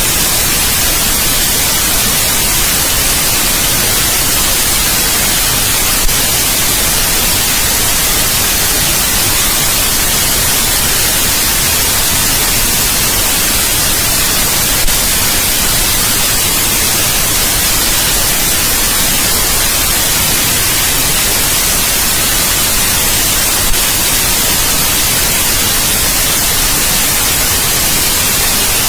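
Steady white noise: an even, unchanging hiss across all pitches, strongest in the highs. A faint click comes three times, about nine seconds apart.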